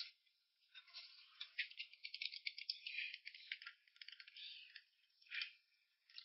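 Faint eating sounds: quick crackling clicks of food being chewed, densest a couple of seconds in.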